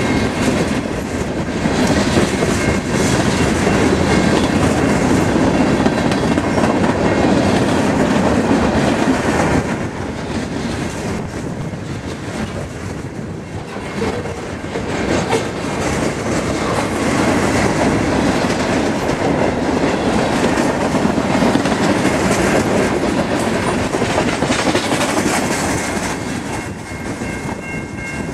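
Freight train cars, covered hoppers and then a tank car, rolling steadily past close by, their steel wheels clattering rhythmically over the rail joints.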